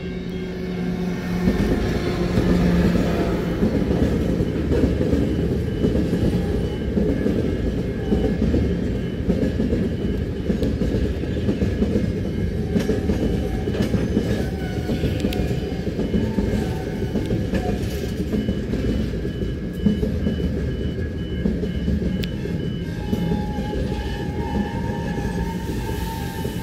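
Diesel-hauled freight train passing over a level crossing: it grows louder over the first couple of seconds, then a steady rumble and clatter of wagon wheels on the rails. A level-crossing warning bell dings steadily over it.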